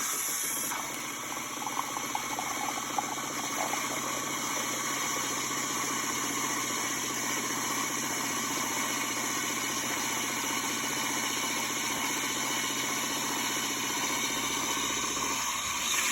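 Miele CM 5310 automatic coffee machine frothing milk for a cappuccino: its pump runs with a steady, rapidly pulsing hum as it draws milk through the tube. Shortly before the end the lower part of the sound stops.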